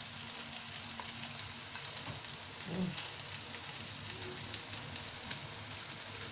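Food sizzling in hot oil in a pan, a steady crackle with small scattered pops, and a brief soft low thump about three seconds in.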